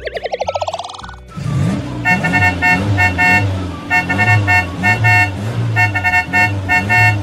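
A warbling cartoon sound effect rises in pitch for about a second. Then a cartoon car engine hums under rapid horn beeps, which come in three bursts of toots.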